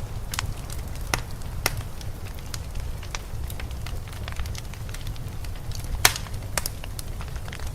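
Wood fire crackling: irregular sharp pops and snaps over a steady low rumble, with the loudest pop about six seconds in.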